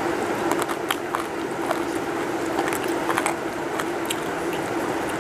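Chewing on a piece of chicken on the bone: a scatter of small crisp clicks and cracks from biting and gnawing, over a steady low hum.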